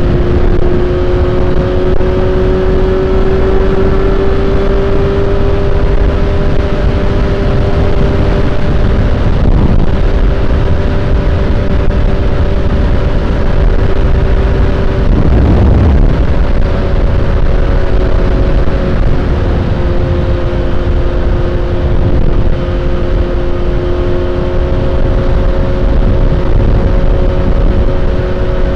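Suzuki GSX-S750's inline-four engine running steadily at highway speed, its whine holding pitch under heavy wind rush on the microphone. About fifteen seconds in a brief louder rush of noise cuts across it, and the engine note is slightly lower afterwards.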